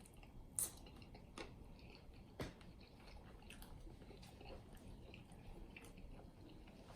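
Faint close-up chewing of saucy chicken wings: wet mouth sounds with a few sharp clicks, the clearest in the first two and a half seconds.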